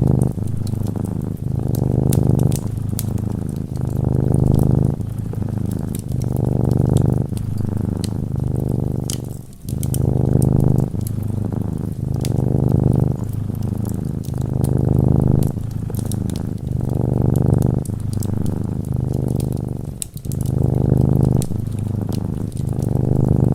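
Domestic cat purring close up, a steady low rumble that swells and dips in a regular rhythm about every second or so as it breathes in and out. Light fireplace crackles tick sparsely over it.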